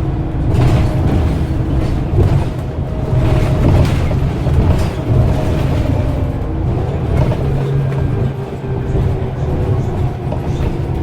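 Scania CN94UB OmniCity bus's diesel engine running hard under heavy throttle: a loud, steady low rumble with faint held tones over it and a few brief rattles.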